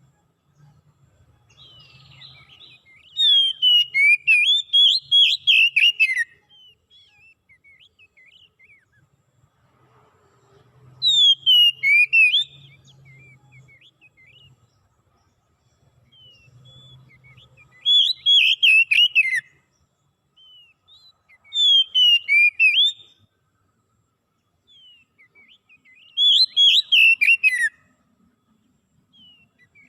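A songbird singing in five bursts of fast, varied whistled phrases, each lasting one to three seconds, with pauses of a few seconds between them.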